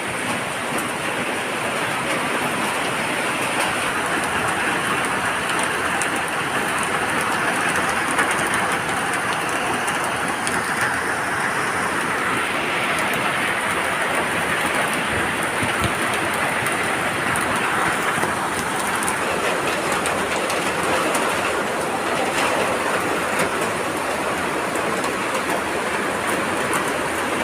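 Steady heavy rain falling, an even unbroken hiss with no let-up.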